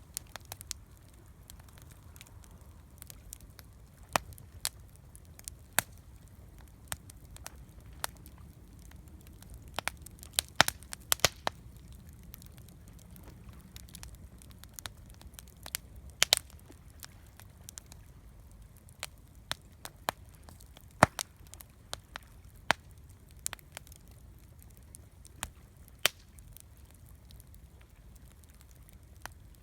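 Wood campfire crackling: irregular sharp pops and snaps, a few louder ones, over a steady low rumble of burning.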